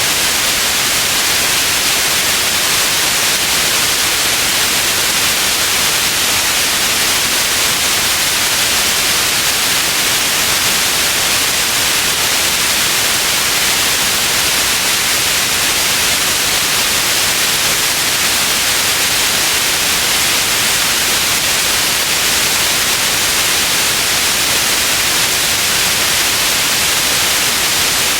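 Steady synthetic white noise, an even hiss that does not change, brightest in the high frequencies.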